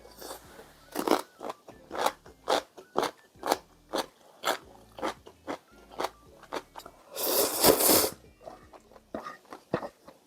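Close-up chewing of crunchy food, with crisp crunches at about two a second. About seven seconds in comes a louder, noisier burst lasting about a second.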